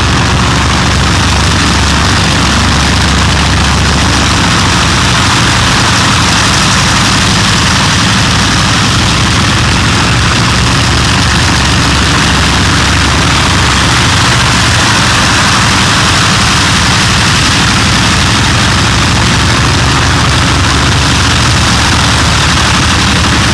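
A heavy engine running steadily, with a loud, even hiss over it.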